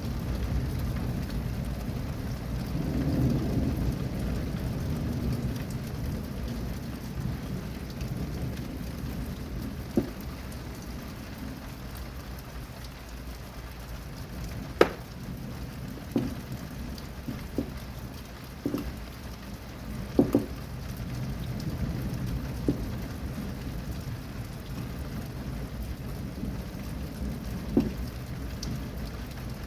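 Steady rain with a low thunder rumble that swells about three seconds in and then eases. Scattered sharp ticks sound through the second half.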